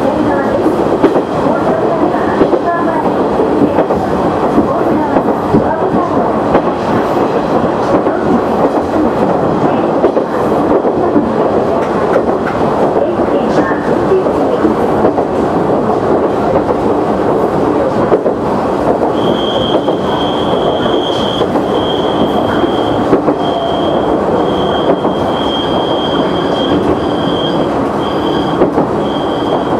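KiHa 100 diesel railcar running along the line: steady engine and wheel-on-rail noise heard from the cab. From about two-thirds of the way in, a high squeal comes and goes repeatedly.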